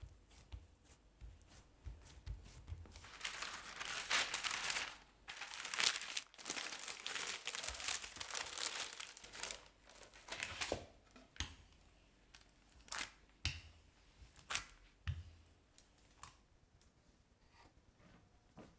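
Kitchen handling noise: crinkling, rustling stretches, as of paper or wrap being worked, followed by a few light taps and clicks.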